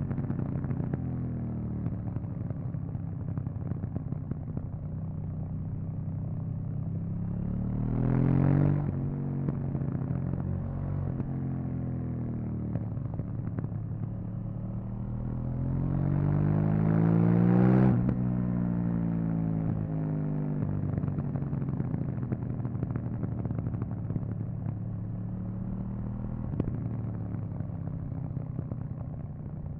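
KTM 790 Duke's parallel-twin engine on its stock exhaust, heard from the bike while riding through curves. About eight seconds in the revs rise briefly and fall; a little past halfway the engine pulls in a longer rising climb that cuts off sharply as the throttle closes, and the revs then sink slowly.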